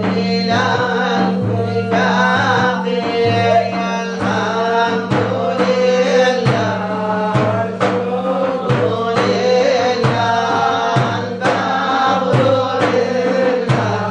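A man's voice singing a Sufi devotional song in a melismatic style, accompanied by regularly struck drum beats.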